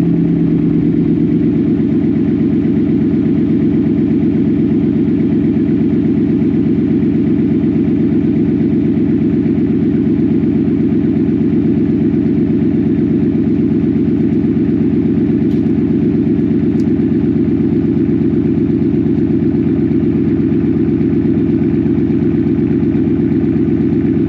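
Ford F-150's 5.0 Coyote V8 idling steadily after a cold start through a true-dual Borla Attack cat-back exhaust, a loud, even pulsing rumble. One strong low note in it drops away about a second in.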